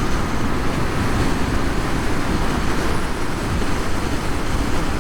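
Loud, steady wind rush buffeting past a motorcycle helmet at road speed, with no engine sound under it: the Harley-Davidson LiveWire's electric drive is nearly silent.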